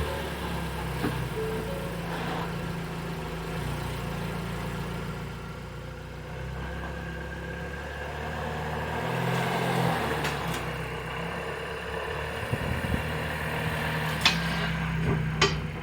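The 2019 Ford Escape's 2.5-litre four-cylinder engine running at low speed as the car creeps slowly up onto ramps, with a few sharp clicks near the end.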